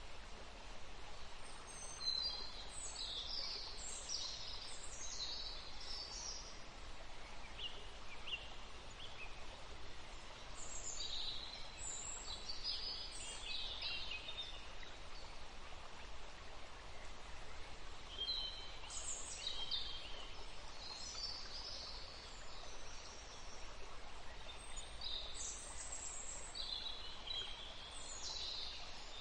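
River water flowing steadily under songbirds singing high, chirping phrases, one about every eight seconds.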